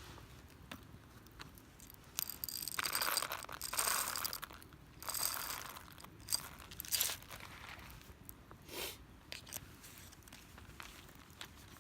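Crunching and rustling, in a few short spells with scattered light clicks between them.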